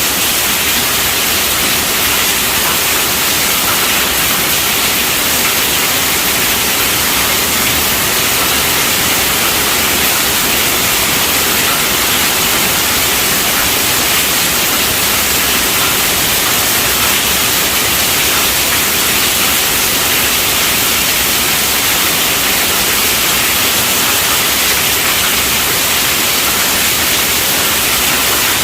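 Steady rainfall: a dense, even hiss with no thunder or single drops standing out.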